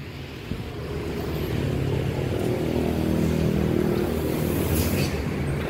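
A vehicle engine idling nearby, a steady hum that grows louder over the first couple of seconds and then holds steady.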